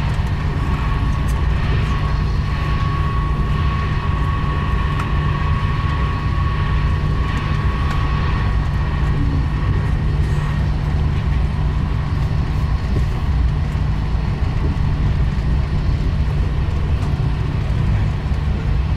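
Steady running noise of a TGV Duplex high-speed train at speed, heard inside the passenger car: a constant low rumble with a faint thin whine that fades out about halfway through.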